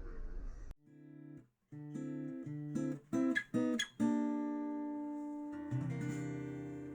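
Background music: guitar playing a short run of plucked notes and chords, then a final chord left ringing and slowly fading. Outdoor background noise cuts off under a second in, just before the music starts.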